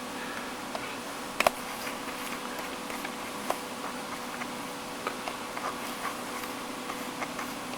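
Scattered light clicks, one sharper about a second and a half in, over a steady hum with a constant tone and faint room noise.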